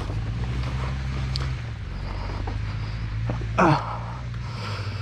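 Dirt bike engine idling steadily. A short vocal cry, falling in pitch, cuts in a little past halfway and is the loudest sound.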